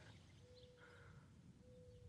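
Near silence, with two faint short tones of the same steady pitch, one about half a second in and the other near the end.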